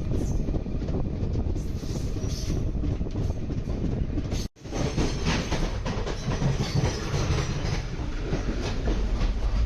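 Steady rumble and rattle of a moving express passenger train, heard from aboard the coach as its wheels run over the rails. The sound drops out completely for an instant about halfway through.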